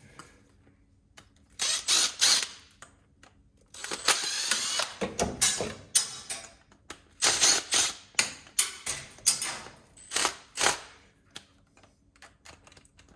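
Hand tools and loose metal parts of an LPG instant water heater being dismantled: irregular clicks and rattles in short bursts, with a longer, denser rattle about four seconds in.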